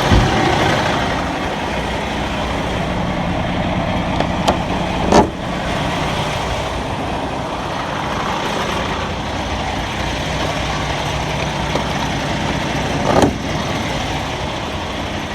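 Semi-truck diesel engine idling steadily, with a few short clicks or knocks about five seconds in and again near the end.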